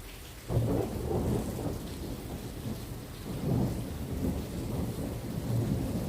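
Distant thunder rumbling over steady rain. The low rumble starts suddenly about half a second in and rolls on in several swells.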